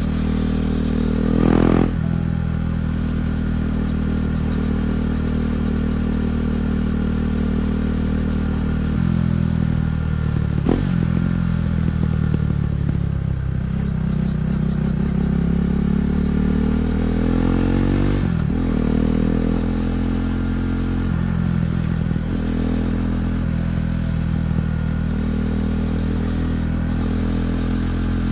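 KTM 390 Duke's single-cylinder engine running through an Akrapovic exhaust while riding. There is a short louder rev near the start, and engine speed drops then climbs again about halfway through.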